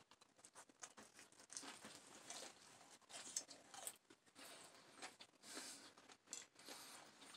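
Faint chewing and small mouth clicks from a man eating a bacon-wrapped green bean, with scattered soft ticks.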